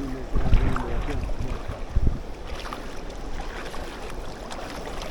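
Water sloshing with wind on the microphone and a few low knocks in the first two seconds. Brief faint voice fragments come early on.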